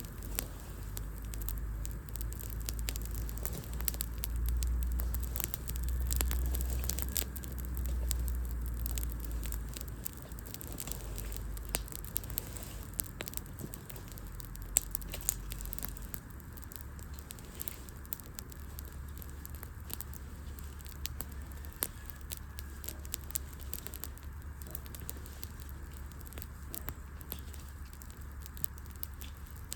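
Wood fire crackling, with many sharp snaps and pops scattered throughout, over a low rumble that is strongest in the first ten seconds or so and then eases.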